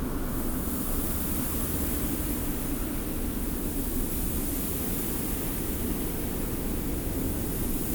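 Steady desert wind with blowing sand: a low, even rumble under a fine hiss.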